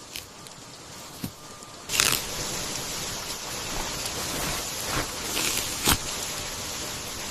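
Steady rain, noticeably louder from about two seconds in, with a few short sharp crunches and snaps on top.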